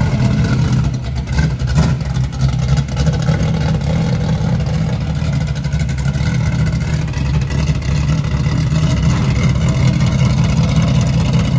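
A car engine running loudly at low, steady revs.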